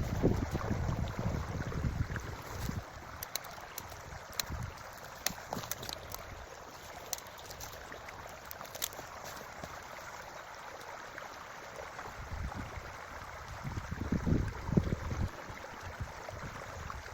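Creek water running steadily, with gusts of wind buffeting the microphone at the start and again about twelve seconds in. A few faint clicks come in the first half.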